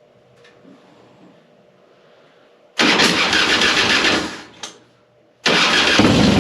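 2005 Harley-Davidson Softail Deluxe's V-twin being started on the electric starter: it cranks for about a second and a half and stops, then near the end cranks again and the engine catches and runs steadily. The starter turns it over properly now that the battery cable terminals have been cleaned, showing the hard starting was a poor battery contact rather than a failing starter.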